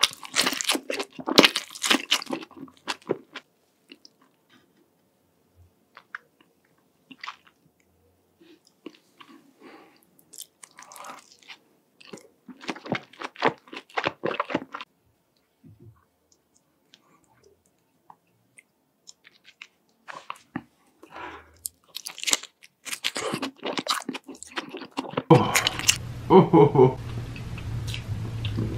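Close-miked eating: bites into a burger and wet, crunchy chewing in short bursts with quiet pauses between. Near the end a steady low hum comes in under the eating sounds.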